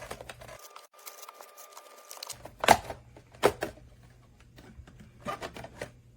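Hands handling a plastic RC car body and its parts: a few sharp clicks and knocks, the loudest about a third and half way in and a small cluster near the end, with light rustling between.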